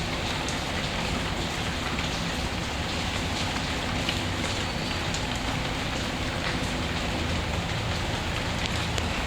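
Steady rain falling, mixed with a fireplace ambience that adds faint scattered crackles over a low rumble.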